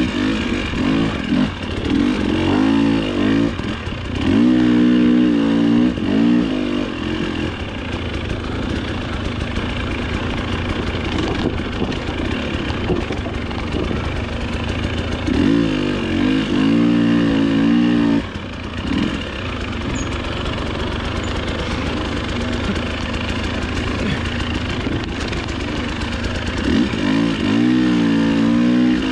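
Dirt bike engine racing on a trail: it opens up several times, pitch climbing and falling under hard throttle, and runs steadier at lower revs between those bursts.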